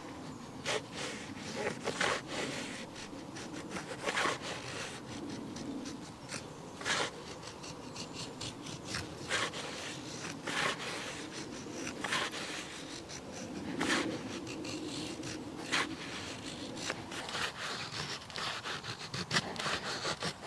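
A blade working wood by hand: scraping and cutting strokes with irregular knocks every second or two.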